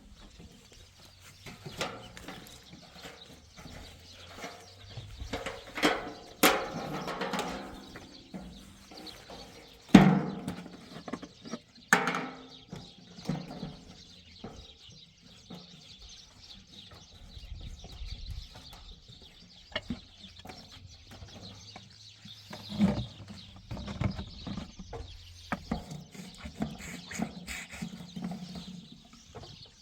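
Outdoor camp sounds: scattered knocks and clatter, one sharp knock louder than the rest about ten seconds in, with farm animals calling now and then.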